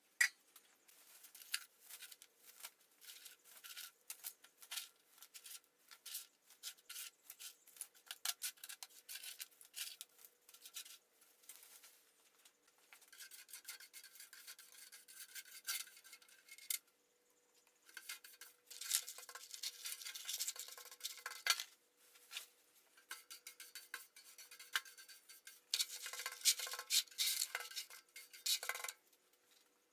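Irregular hand scraping and rubbing strokes with scattered light clinks and taps. They come in bursts, busiest in the middle and near the end.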